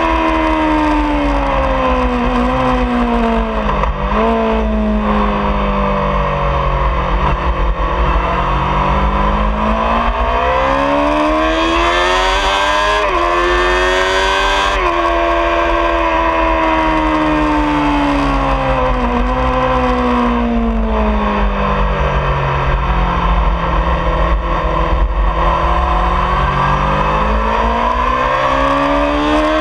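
2003 Honda CBR600RR's inline-four engine at track speed with wind rush on the microphone. The revs drop and climb again several times as the bike slows for corners and accelerates out, with sudden pitch steps at the gear changes.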